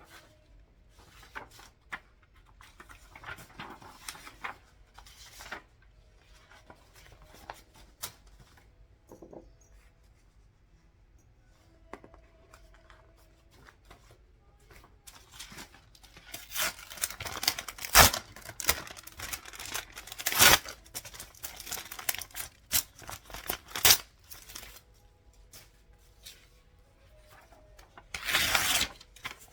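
Paper being handled and ripped. Light rustles and clicks come first; from about halfway there is a run of tearing and crinkling strokes with sharp clicks, and a longer rip near the end.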